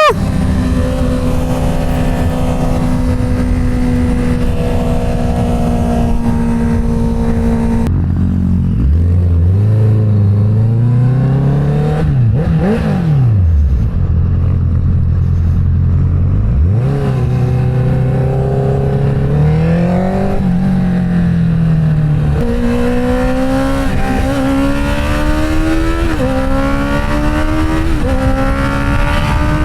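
Inline-four car engine under way. It holds steady revs at first, then revs rise and fall several times, and near the end they climb in a series of short steps.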